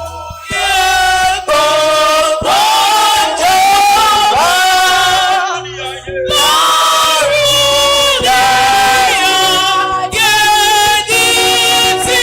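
Church congregation singing together in a worship song over low instrumental backing, in phrases with short breaks between them.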